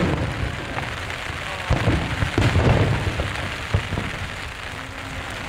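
Aerial fireworks shells bursting, with low booms and sharp cracks clustered in the middle, over a steady hiss of heavy rain.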